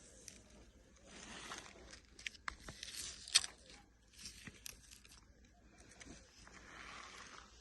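Small plastic toys being handled and rubbed: a series of short rustling, scraping strokes with a few light clicks about three seconds in.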